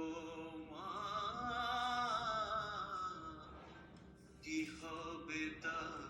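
Background song: a single voice singing a Bengali song in long, drawn-out notes with vibrato, phrase by phrase.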